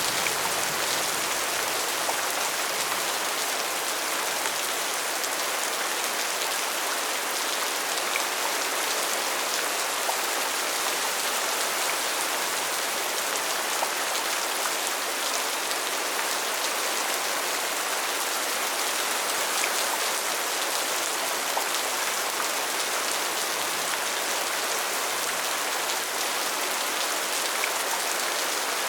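Steady rain falling, an even hiss with the odd individual drop standing out.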